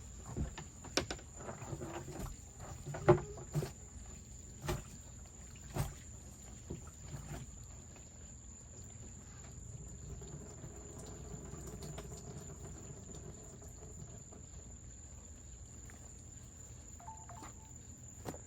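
Live blue crabs being handled and dropped into a cooler: a run of sharp knocks and clatters over the first six seconds, the loudest about three seconds in, then softer handling noise. A steady high insect drone, like crickets, runs underneath.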